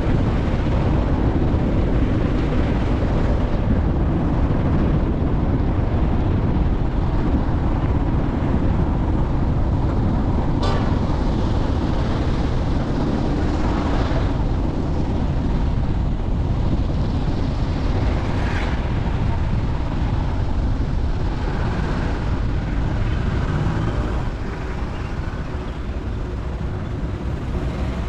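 A vehicle driving along, with a steady low rumble of engine and road noise and two brief clicks partway through.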